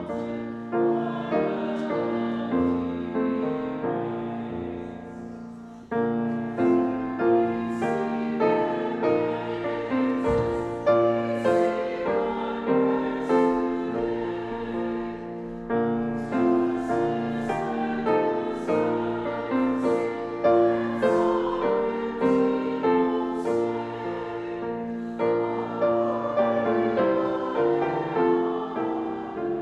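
Church choir singing a slow sacred piece with piano accompaniment, held chords in phrases, one phrase ending about six seconds in before the next begins.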